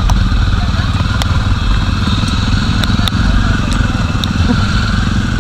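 Jawa motorcycle's single-cylinder engine running steadily on the move, under a constant rush of wind and rain noise on the microphone, with a few sharp clicks.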